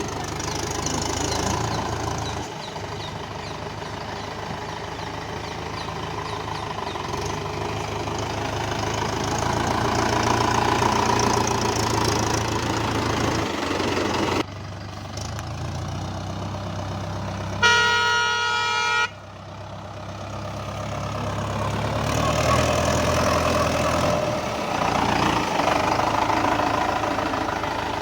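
Mahindra tractor's diesel engine running, its loudness rising and falling. A single horn blast lasting about a second and a half comes about two thirds of the way through.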